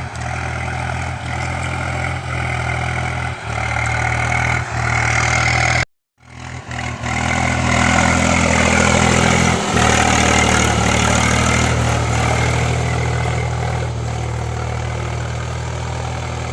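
Swaraj tractor's diesel engine running steadily. The sound cuts out briefly about six seconds in, then the engine comes back louder.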